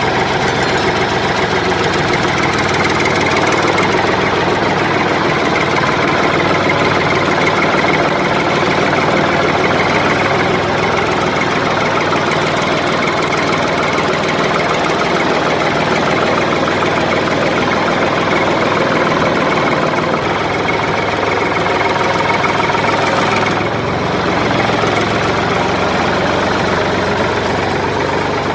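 Steady engine-like running sound, dense and unchanging, dipping slightly about twenty seconds in.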